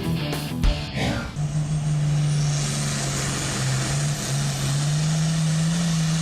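Rock music with drum hits stops about a second in, giving way to an altered stock pulling tractor's engine running hard at a steady high pitch, which steps up a little about halfway through.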